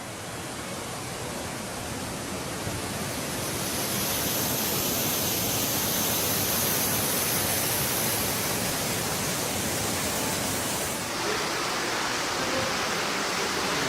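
Loud, steady rush of water, like floodwater pouring or a torrent, building up over the first few seconds and then holding steady.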